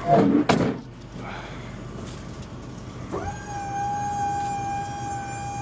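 Box truck liftgate's electric hydraulic pump starting about three seconds in and running with a steady whine as the gate goes up, after a sharp knock near the start.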